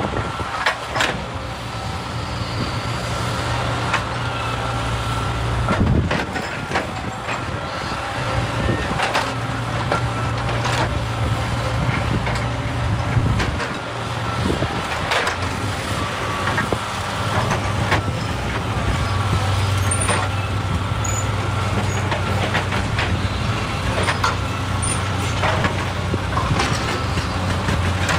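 Excavator's diesel engine running steadily under work, with a faint steady whine and scattered sharp knocks and clatter of rock.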